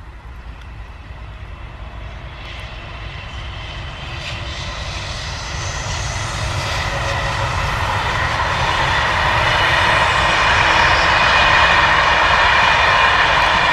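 An SNCF BB 26000 electric locomotive hauling a train of passenger coaches past at speed. It grows steadily louder as it approaches, a broad rushing noise of wheels on rail with a faint steady whine, and is loudest near the end.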